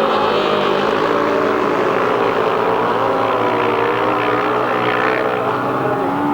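Several grasstrack racing motorcycle engines running hard together, their pitches rising and falling as the riders open and close the throttle through the corners.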